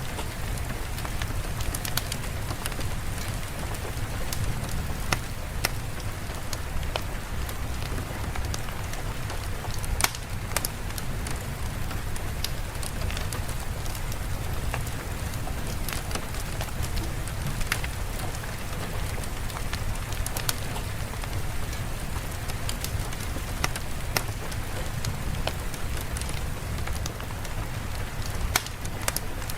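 Steady rain with a low rumble, with sharp irregular pops and clicks from a crackling fire.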